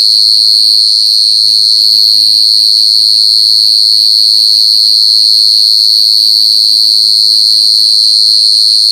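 A male cricket's unbroken, high-pitched trill, made by stridulation: rubbing its front wings together. This is the calling song males use to attract females.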